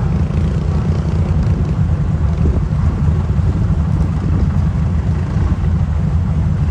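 A pulling truck's engine running loud and steady with a deep low rumble.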